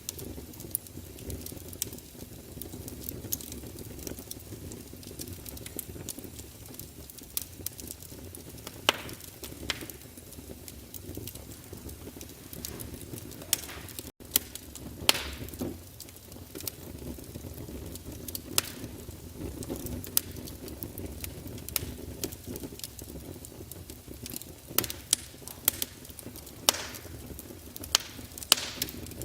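Fire in a fireplace crackling, with irregular sharp pops and snaps over a steady low rumble of flame. The sound drops out for a split second about halfway through.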